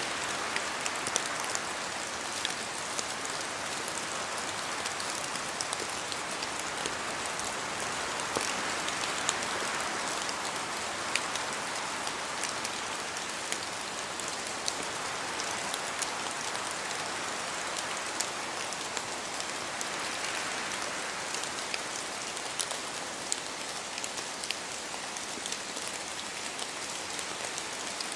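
Steady rain in a forest, a continuous hiss with many small drop ticks scattered through it, swelling and easing every several seconds as wind gusts move through the trees.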